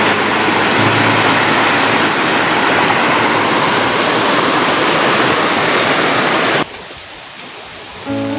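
Waterfall rushing: a steady, loud, even noise that cuts off abruptly about two-thirds of the way through. Background music comes back in near the end.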